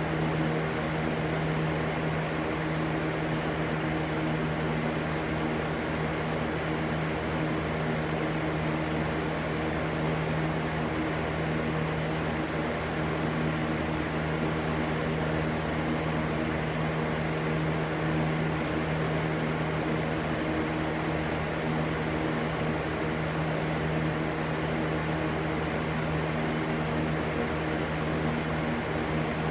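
Electric fan running steadily: a constant rushing hiss over a low, even motor hum that never changes.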